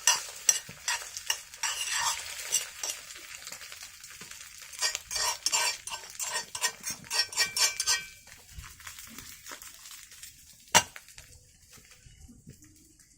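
A cooking utensil scraping and stirring in a pan of sizzling food over a wood fire, in quick repeated strokes for about eight seconds. Then it goes quieter, with a single sharp knock a little past ten seconds.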